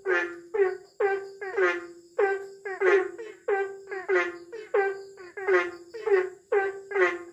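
Asian common toad (Bufo melanostictus) calling: short croaks in quick succession, about two to three a second, each starting sharply and fading. A thin steady high tone runs behind them.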